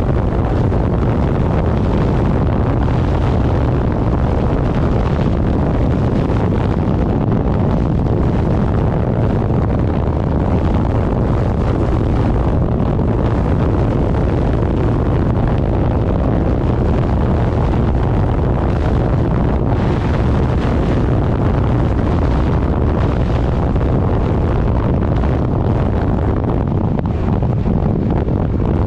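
Heavy wind noise on the microphone while riding at speed, with a steady low vehicle drone underneath, unchanging throughout.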